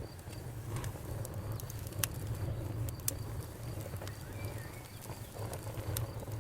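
Wood campfire burning: a steady low rumble of flames with scattered sharp crackles and pops, the loudest pops about two, three and six seconds in.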